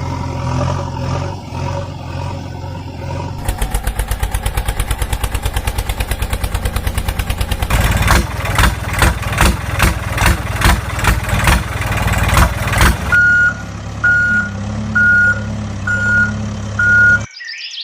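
Truck engine idling, then running with a fast even chugging that gives way about halfway through to a slower, heavier pulsing. Near the end five evenly spaced reversing beeps sound over the idle before everything cuts off abruptly.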